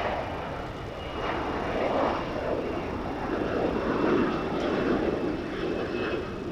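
Jet engines of a KC-135R tanker (CFM56 turbofans) running at high power: a broad rushing noise that swells and eases, with a steady high whine over it.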